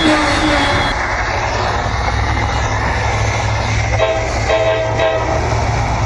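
Commuter train running past with a steady rumble and hiss of wheels on rail. About four seconds in, a brief two-part horn sounds.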